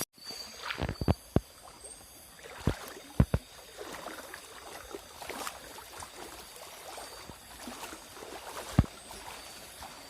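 Water sloshing and splashing as someone moves through a river, with several sharp knocks: a cluster in the first second and a half, two more about three seconds in, and a loud one near the end.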